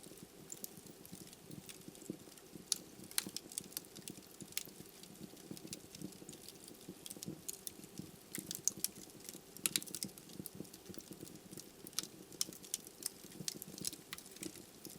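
Wood fire burning in a fireplace: irregular sharp crackles and pops from the burning logs over a steady low rumble of flame.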